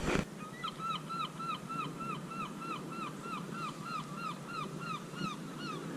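A bird calling the same short note over and over, about three times a second, each note rising then falling. The calls begin about half a second in and stop shortly before the end, over a faint steady outdoor background.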